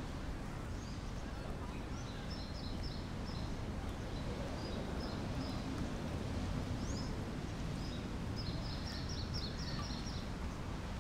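Small birds chirping in several bursts of quick, high notes over the steady noise of a busy city street.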